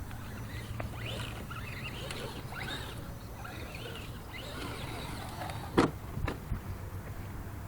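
Electric motor and geartrain of a 1/10-scale RC rock crawler, an old brushed motor salvaged from a cordless drill, whining in short bursts that rise in pitch with each throttle pull. A sharp knock comes about six seconds in, followed by a lighter one.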